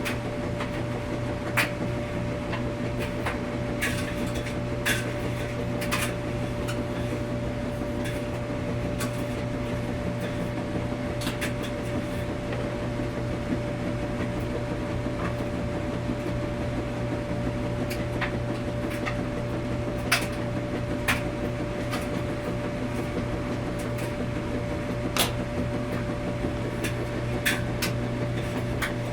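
Laundromat washing machine running with a steady low hum and a constant tone, with sharp clicks and knocks at irregular intervals.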